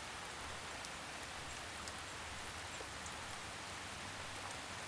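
Steady rainfall in a forest: an even hiss of rain with scattered faint droplet ticks.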